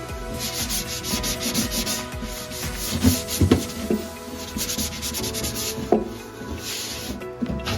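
Scrubbing and scraping strokes against the inside of a microwave, working off grime softened by steam, with a few sharp knocks about three seconds in and again near six seconds.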